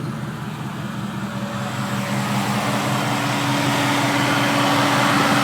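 Swapped 4.8-litre V8 idling steadily with the A/C compressor clutch engaged. From about two seconds in, a rushing whir grows steadily louder over the idle.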